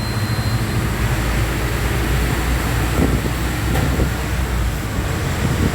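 Steady low rumble and tyre hiss of a vehicle driving along a rain-wet road.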